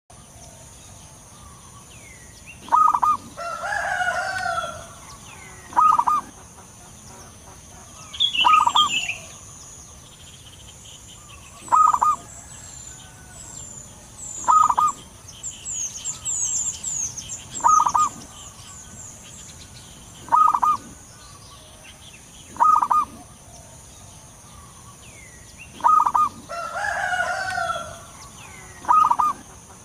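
Zebra dove (perkutut) calling in short, clear phrases, repeated about every two to three seconds. A chicken crows twice, and small birds chirp in the background.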